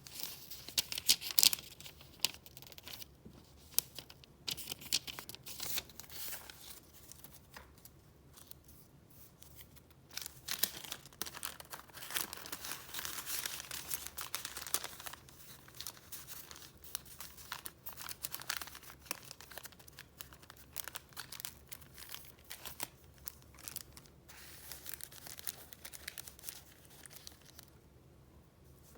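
Paper rustling and crinkling as the sheets of a file of retro papers are handled and turned. Irregular crackles come with sharper clicks, busiest near the start and again around the middle.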